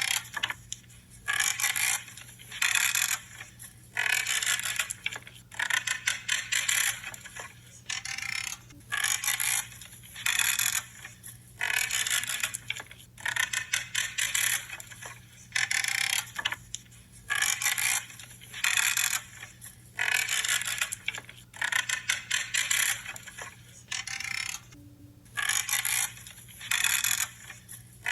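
Pruning shears cutting through branches again and again, each cut a creaking snip about half a second to a second long, roughly one a second.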